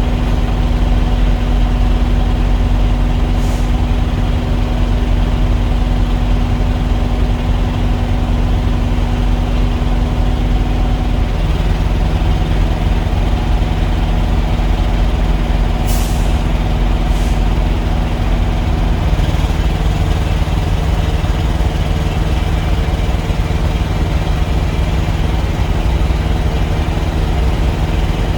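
Semi truck's diesel engine idling steadily, its pitch settling lower about a third of the way in. Three short air hisses from the truck's air system, the loudest a little past halfway.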